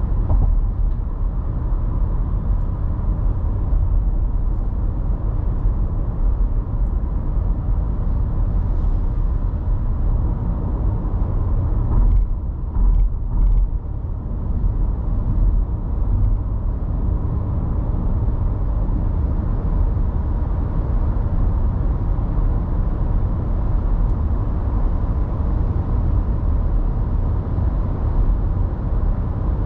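Car driving on city roads: a steady low rumble of tyre and engine noise, with a few short thumps about twelve to fourteen seconds in.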